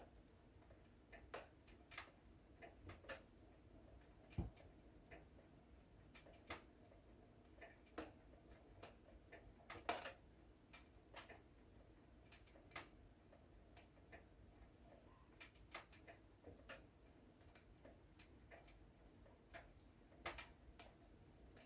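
Wood fire in a fireplace crackling quietly, with irregular sharp pops and snaps over a faint low rumble; the loudest pops come about four seconds and ten seconds in.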